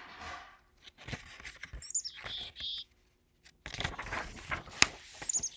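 Chickadee call given twice, about two seconds in and again near the end: a few high descending notes running into a buzzy lower 'dee'. Paper rustling and handling noises come between the calls.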